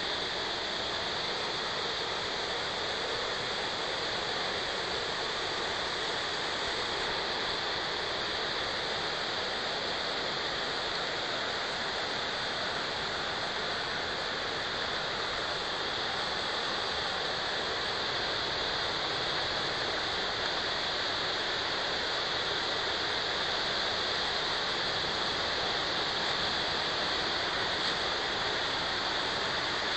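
Underground spring water gushing out of a rock face as a waterfall, a steady, even rush of falling water.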